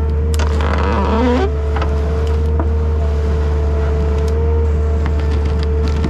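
Takeuchi TL10 compact track loader's diesel engine running steadily under load with a steady whine over it, as the skid-steer tree shear works; a few sharp cracks and snaps come in the first second and a half.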